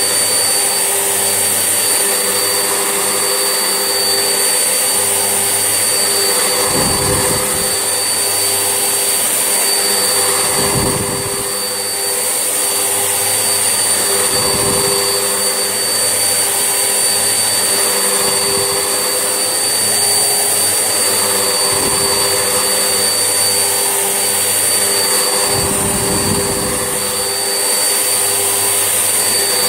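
Vax Essentials vacuum cleaner running steadily, a motor whine over rushing airflow, the sound shifting every few seconds as it is worked back and forth. The level dips briefly about eleven seconds in and again near the end.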